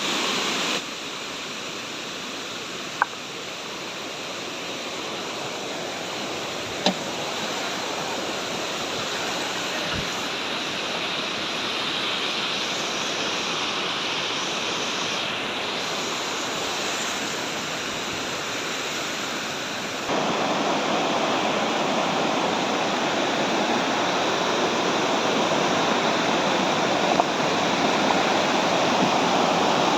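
Steady rush of falling water from a waterfall, a dense even roar that steps up in loudness about two-thirds of the way through. Two faint clicks in the first quarter.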